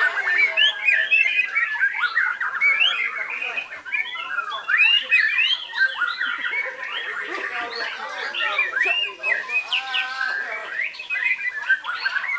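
White-rumped shama (murai batu) singing without a break: a fast, varied run of quick rising and falling whistled notes.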